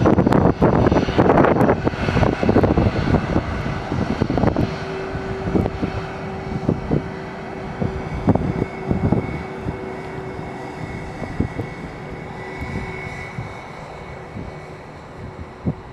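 An airliner's engines going past, loud at the start and fading steadily as the aircraft moves away, with a steady engine whine lingering under the fading noise.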